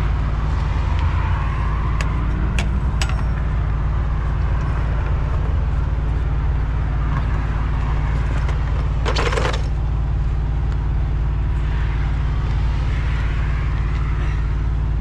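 Steady low drone of an idling vehicle engine, with a few sharp metallic clicks early on and a short scraping burst about nine seconds in, as a tool works a tight filter housing cap loose.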